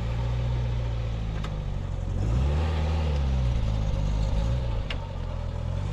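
Car engine running, its note rising and falling twice as it revs, with a couple of faint clicks.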